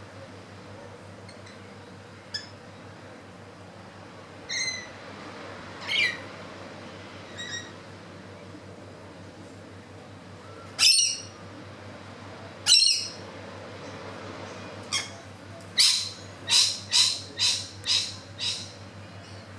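A bird calling with short harsh calls, scattered at first, then a quick run of about six calls near the end, over a steady faint low hum.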